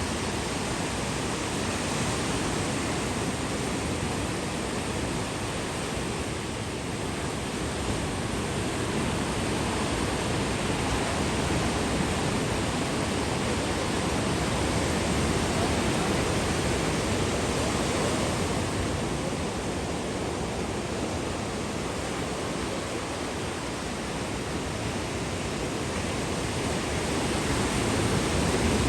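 Rough sea surf: a continuous roar of breaking waves that swells and eases slowly, loudest near the end.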